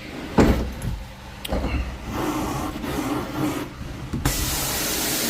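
Carpet-cleaning wand spraying, a loud steady hiss that starts suddenly about four seconds in, with the pressure set high at 600 psi. Before it, a knock about half a second in over a low rumble.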